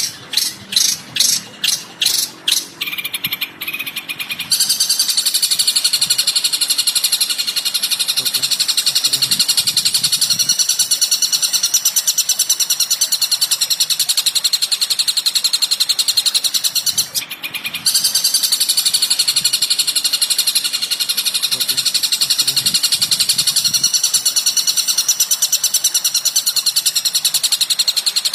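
Recorded bird song: about eight sharp, separate high calls, then a continuous rapid high-pitched trill that breaks off once for a moment past the middle and starts again.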